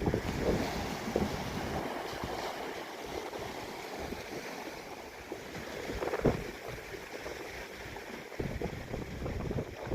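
Wind gusting against the microphone, with low buffeting rumbles, over a steady rush of surf.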